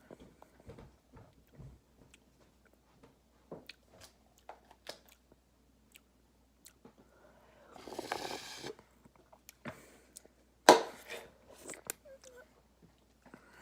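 Close mouth sounds of someone licking and slurping a thick milkshake off a cup lid: scattered small wet smacks and clicks. There is a louder, noisier stretch about eight seconds in, and a sharp click about eleven seconds in.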